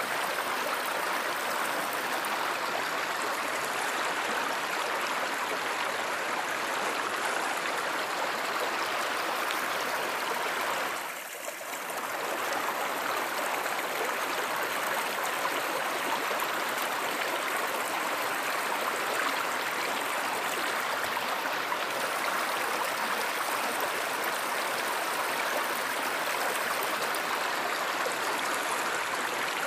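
Flowing stream water, a steady rush and gurgle. It briefly dips in loudness about a third of the way through, then returns.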